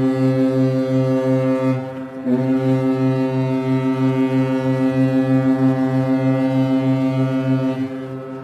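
Large ferry's ship horn giving a long, loud blast with a deep pitched tone, briefly faltering about two seconds in before sounding on. It stops near the end and its sound dies away.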